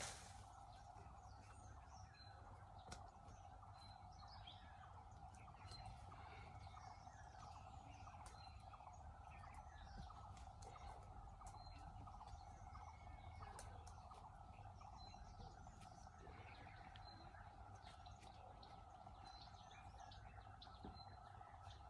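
Faint outdoor ambience: short high bird chirps recur every second or two over a steady low hum, with a few faint clicks.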